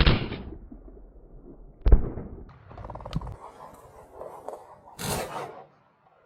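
Shotgun shots at flushed game birds: two reports about two seconds apart, the second the loudest. About five seconds in comes a short rushing burst.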